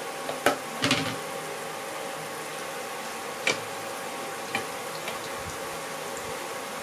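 Battered baby corn pieces sizzling in hot oil as they are fried for the second time, with a few sharp clinks of a wire spider skimmer against the pan: twice within the first second, the loudest sounds, then again at about three and a half and four and a half seconds.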